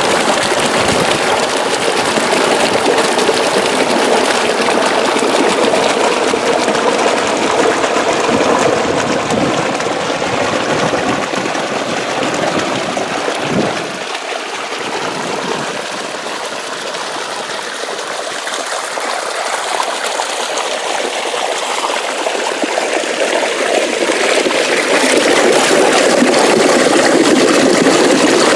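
Water rushing along an irrigation ditch (acequia), a steady splashing flow. It eases a little around the middle, with a brief low bump, and grows louder again toward the end.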